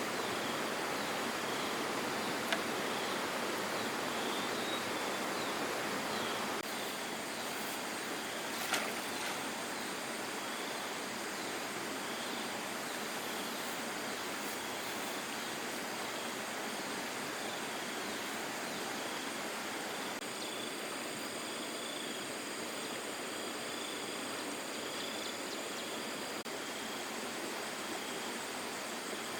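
Steady rushing noise of running water, dropping slightly in level about six seconds in, with a couple of faint clicks.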